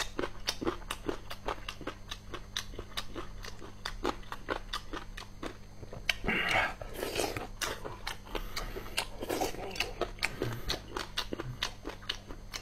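Close-miked chewing of sour-and-spicy boneless chicken feet: a steady run of crisp crunches, a few a second, as the tendon and cartilage are bitten through. About six seconds in, a louder, wetter bite comes as a fresh piece goes into the mouth.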